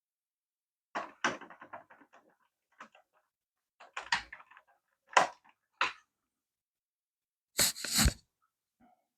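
Scattered clicks and knocks from the small plastic parts of a toy radio-controlled car being handled and taken apart, with a quick run of small rattling ticks about a second in and a louder double knock near the end.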